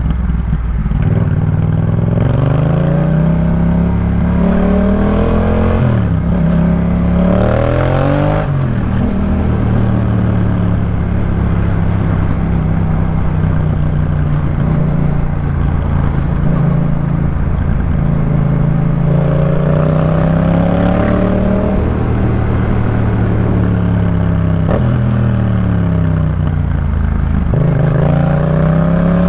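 Yamaha MT-07's 689 cc parallel-twin engine through a Jeskap K4 full exhaust, pulling up through the gears with the pitch climbing and dropping at each shift. It then holds a steady cruise for about ten seconds before accelerating through a few more shifts near the end.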